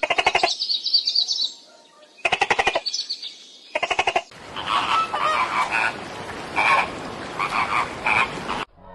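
Animal calls: three short bursts of rapidly repeated pulses in the first four seconds, then a denser chorus of overlapping calls that cuts off suddenly near the end.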